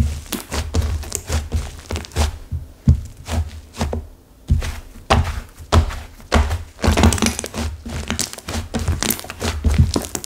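Clay-mixed flora slime gone stiff and crumbly being pressed and worked by hand: a quick, irregular run of crackles and crunches over dull thuds, the sound of the hardened clay breaking up.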